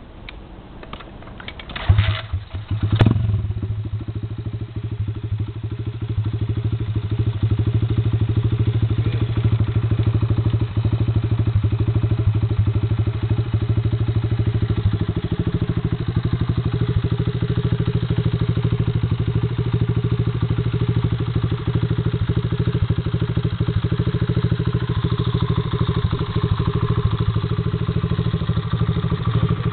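125cc pit bike engine starting about two seconds in, after a few clicks and knocks, then running steadily. About halfway through its note steps up and holds at the higher speed.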